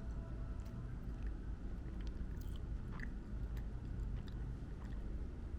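Crispy fried chicken being bitten and chewed: scattered small crunches and crackles over a steady low background rumble.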